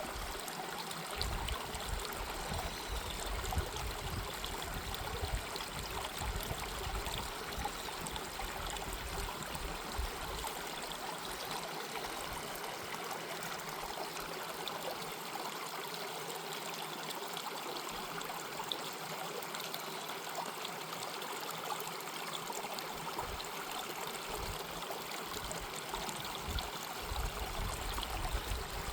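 Mountain stream flowing over rocks, a steady rush of water. A low rumble comes and goes underneath in the first third and again near the end.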